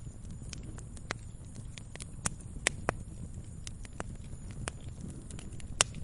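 Wood campfire crackling: irregular sharp pops and snaps, a few louder ones in the middle and one near the end, over a low steady rumble of the burning fire.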